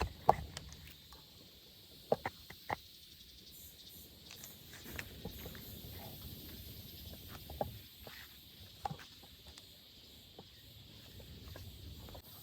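Irregular sharp knocks and clicks: a loud one just after the start, three in quick succession about two seconds in, and a few more later. A faint steady high hiss runs behind them.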